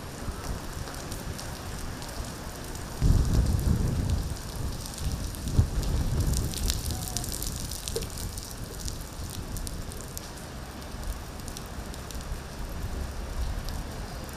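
Steady rain falling on hard surfaces, with many fine drop ticks. About three seconds in, a louder low rumble comes up and lasts several seconds before easing back.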